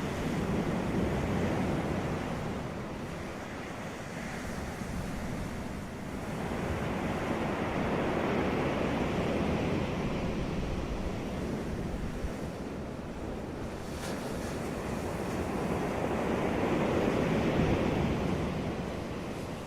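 Ocean waves breaking on a beach, the surf rising and falling in slow surges about every eight seconds, with some wind noise on the microphone.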